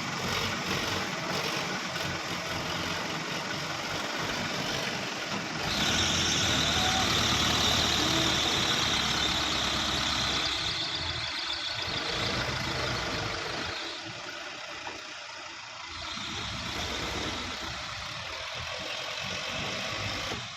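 Diesel engine of a heavy farm vehicle running, getting louder about six seconds in and easing back down after about twelve seconds.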